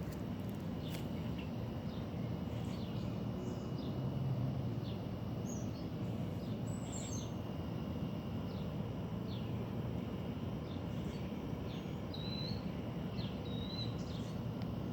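Small birds' short high chirps, scattered throughout with a couple of brief warbled notes in the later part, over a steady low rumble of outdoor background noise.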